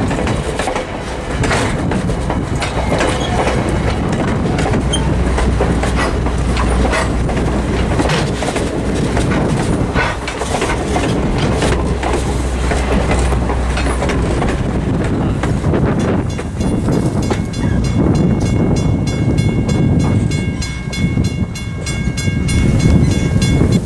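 Train rolling past with a continuous heavy rumble and the clickety-clack of wheels over rail joints. About two-thirds of the way in, a sustained high, steady tone joins in and holds until shortly before the end.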